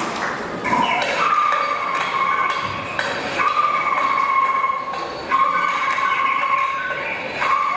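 A high ringing note sounded about five times, the same pitch each time, each note starting sharply and held for a second or two.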